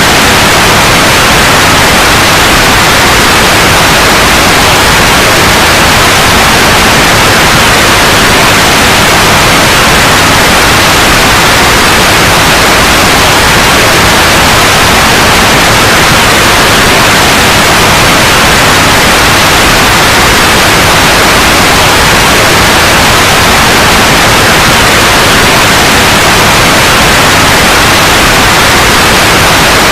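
Loud, steady white noise: an unbroken hiss across all pitches.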